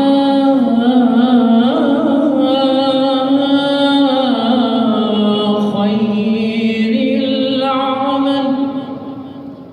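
A man's solo voice chanting one long, ornamented phrase of the Shia call to prayer (adhan). The held note steps up and down in pitch and fades out near the end.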